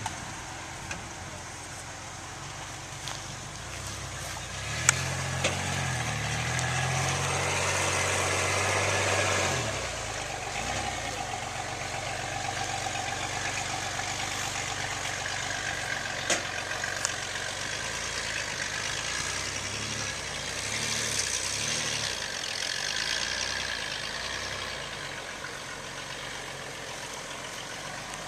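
2011 Nissan Xterra Pro-4X driving, its engine running and rising in pitch for a few seconds, with a few sharp pops, the clearest about five seconds in and about sixteen seconds in. The owner traces the popping to a suspension part at the driver's front, not the driveline.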